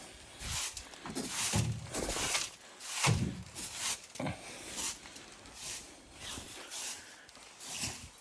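Footsteps crunching in deep snow, an irregular run of steps, some with a dull low thud.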